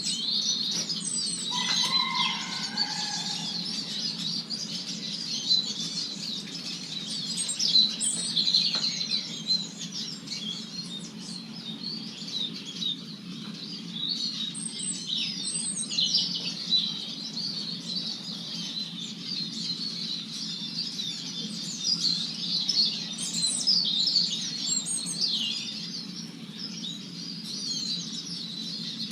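A flock of Eurasian siskins twittering and chattering continuously at a feeder, over a steady low hum. About two seconds in, a lower, falling call sounds briefly.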